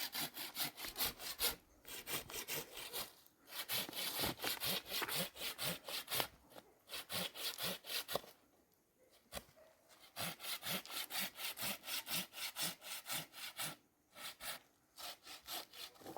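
Hand saw cutting through wood in quick back-and-forth strokes, in runs of a few seconds broken by short pauses, with a longer break about eight seconds in.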